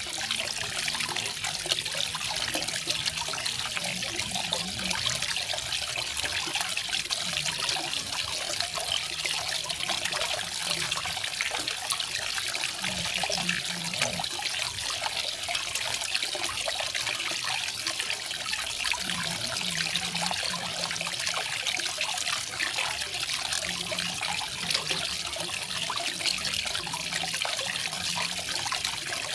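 Small garden waterfall: water falling and splashing steadily into a pool with a continuous bright hiss.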